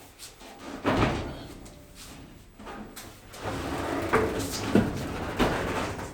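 Thumps and clunks of an emptied storage cabinet being handled and moved, with one heavy thud about a second in and a busy run of knocks and bangs over the last few seconds.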